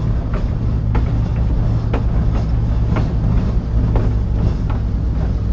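Diesel locomotive running with a steady low engine drone and rhythmic clicking in pairs about once a second, the sound of its wheels crossing rail joints.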